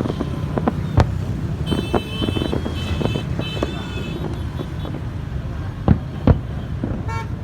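Steady road-traffic rumble with scattered knocks, a high beeping tone in short pulses about two seconds in, and two louder thumps near the end.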